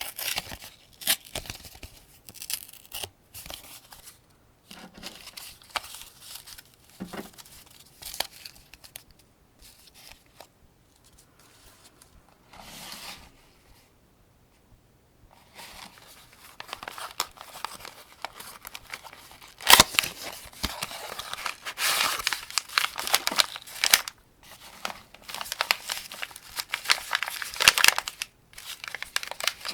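Rifle cartridges being loaded one by one into a 75-round AK-47 drum magazine: sharp metallic clicks and scrapes. They are sparse at first, with a quiet lull near the middle, then come as a dense run of clicking and rattling in the second half.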